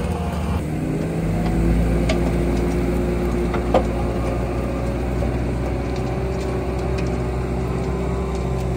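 Bobcat T86 skid steer's diesel engine running steadily under load while its Coneteks forestry mulcher rotor grinds deep into a stump and its roots. The engine note shifts about a second in, and a couple of sharp knocks from wood being struck stand out.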